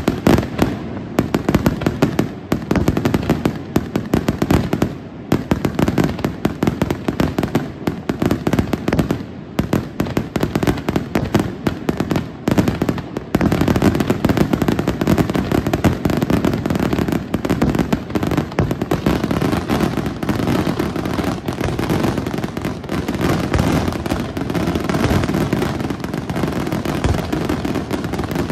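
Aerial fireworks display in a dense, continuous barrage: shell bursts and reports overlap with no pause. The bangs thicken further about halfway through.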